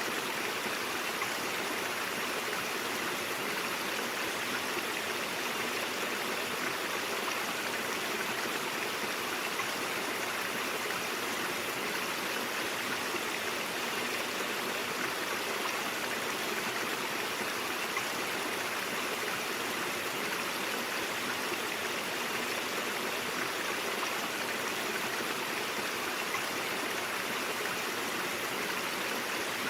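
A stream of water flowing steadily over rocks, an even, unbroken rush of running water.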